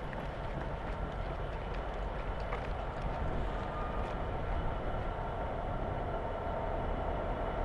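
A train running along the rails, a steady rumble that slowly gets louder.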